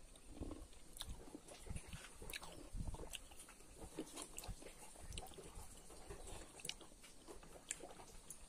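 A person chewing a mouthful of food, faint and close, with many short irregular clicks and mouth smacks.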